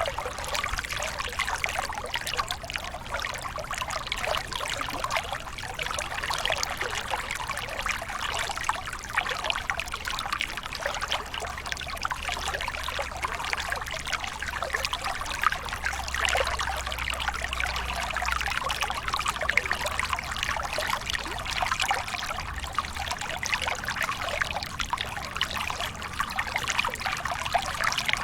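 Waterfall: water pouring and splashing steadily, with a trickling, spattering texture.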